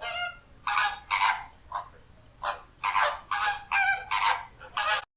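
A flock of flamingos calling: a quick, uneven series of about ten short, goose-like nasal honks.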